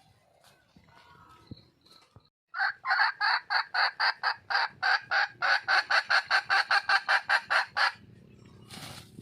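Red junglefowl hen calling for a mate: a fast run of loud, evenly spaced sharp notes, about five a second. It starts about two and a half seconds in and stops abruptly some five seconds later.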